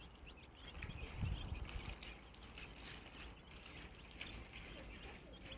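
Flock of baby chicks peeping faintly, many short high chirps throughout. A low rumble comes in briefly about a second in.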